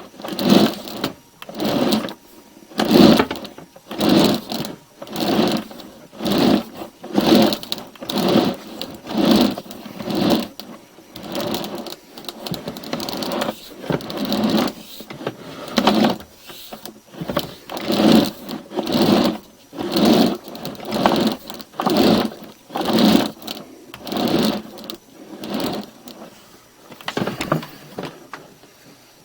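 Sewer inspection camera's push cable being worked through the pipe in repeated strokes, about one a second, each a short noisy rush, dying away near the end.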